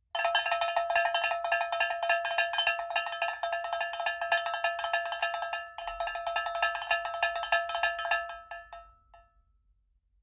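Fast, continuous metallic clinking on something that rings with a steady pitch, breaking off briefly about six seconds in and then dying away near the end.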